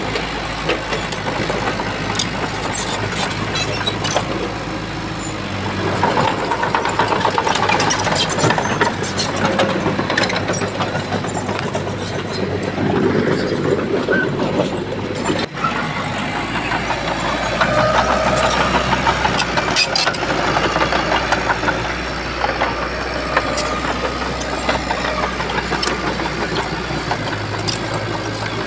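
Shantui bulldozer's diesel engine running under changing load, its level rising and falling every few seconds, with scattered sharp clanks.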